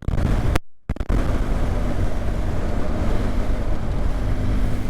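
Wind rushing over the rider's microphone on a moving BMW GS motorcycle, over the low steady drone of its boxer-twin engine. The sound cuts out for a moment just under a second in.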